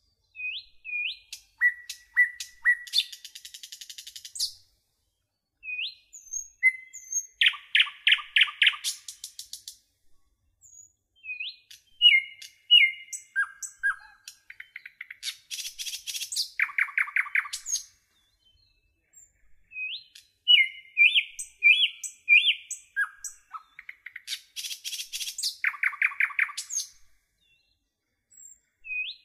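Birdsong: short upswept chirps and fast rattling trills, with silent gaps between phrases and no background noise, the same sequence of calls coming round about every nine seconds.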